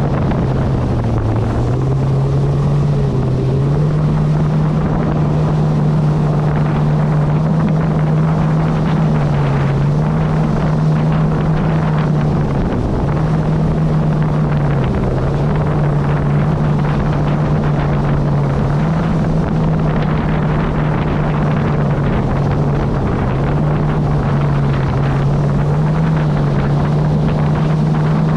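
Kawasaki SX-R 160 stand-up jet ski's 1,500 cc four-stroke engine running under way, its pitch stepping up and down a little with the throttle, with wind noise on the microphone.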